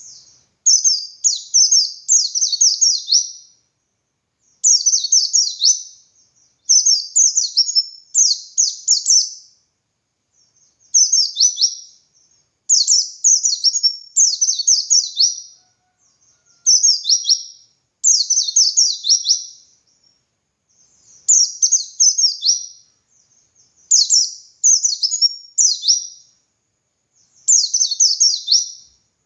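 A white-eye (pleci) singing in repeated high, rapid warbling phrases of quick falling notes, each one to two and a half seconds long with short pauses between. This is the long, continuous 'ngalas' song that keepers use as a tutor recording to get other white-eyes singing.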